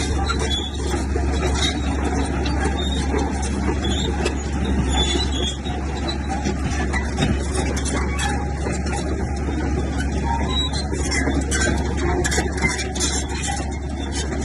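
Komatsu bulldozer's diesel engine running steadily under work, with scattered metallic clanks from the machine.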